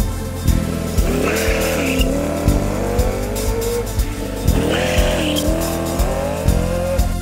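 Plymouth Barracuda's engine revving hard with a tire squeal, twice: the pitch climbs, drops at a shift and climbs again. It is mixed over rock music with a steady drum beat.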